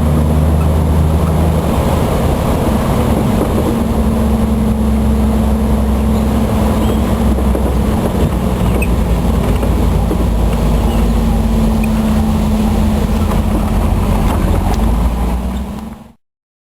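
Vehicle engine running steadily with a low, even hum while driving. The sound fades and cuts to silence near the end.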